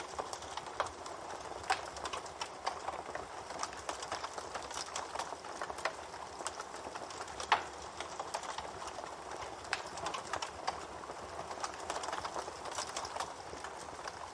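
Wood fire crackling, with a steady hiss and irregular sharp pops, one louder snap about halfway through.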